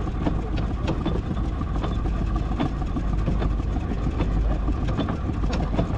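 Miniature steam traction engine being driven slowly: a steady low rumble with scattered, irregular mechanical clicks and knocks.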